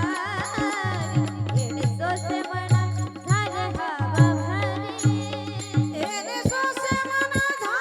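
Marathi Warkari devotional abhang sung by women, with a wavering melodic vocal line over a steady low drone, drum strokes and jingling hand cymbals keeping the beat; a long held sung note near the end.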